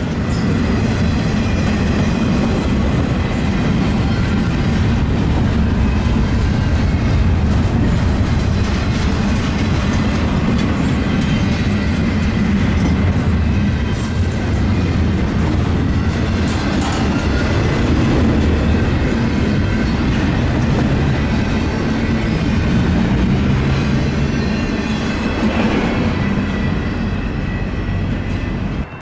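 Intermodal freight train's container cars rolling past, a steady rumble with the clickety-clack of wheels over the rails and faint wheel squeal.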